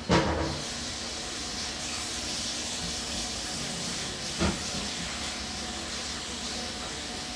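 Steady background hiss, with a brief sharp sound right at the start and a soft knock about four and a half seconds in.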